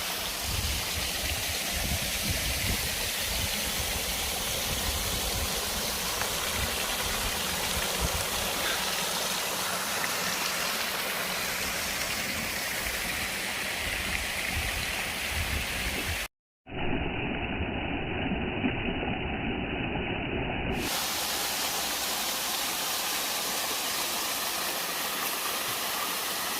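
Waterfall rushing: a steady, even hiss of falling water, with an uneven low rumble in the first half. About two-thirds of the way through it drops out for a moment and comes back duller for about four seconds.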